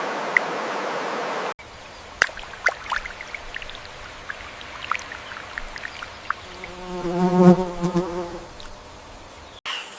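A steady rushing noise cuts off abruptly about one and a half seconds in. Quieter outdoor ambience with scattered small ticks and clicks follows, and a flying insect buzzes past close by for about two seconds, starting about seven seconds in.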